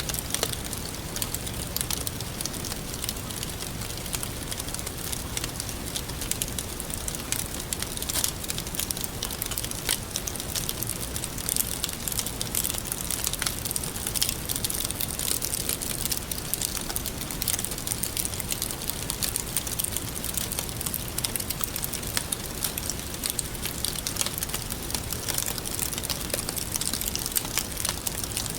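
Wood fire crackling steadily, with many small irregular pops and snaps over a constant hiss of burning.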